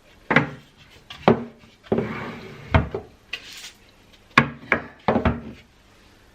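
Pantry items being set down and shifted on a shelf: about eight sharp knocks, with a short scrape about two seconds in.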